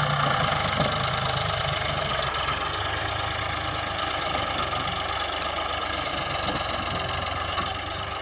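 Tractor engine running steadily at low revs, easing off slightly near the end.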